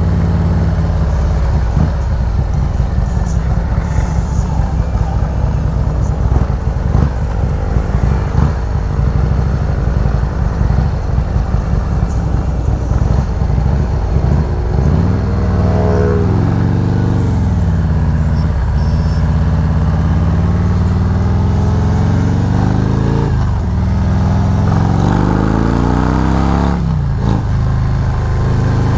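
Harley-Davidson Road Glide's V-twin engine under way, with a heavy pulsing exhaust in the first half, then climbing in pitch and dropping back at each gear change about three times as the bike accelerates.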